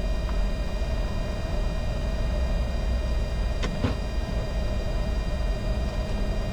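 Steady flight-deck noise of a Bombardier Challenger 605 business jet in descent on approach: a low rumble of airflow and engines with a constant hum and faint high steady tones. Two short clicks come a little over halfway through.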